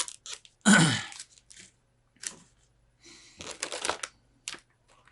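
Cardboard motherboard box and its packaging being handled and opened: scattered clicks and rustling, denser in the second half. A loud short vocal sound with a falling pitch comes just under a second in.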